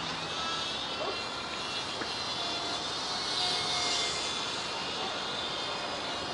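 Small electric motor and propeller of a WLToys Cessna-182 (F949) RC plane whining in flight, growing louder about three to four seconds in as it passes nearer.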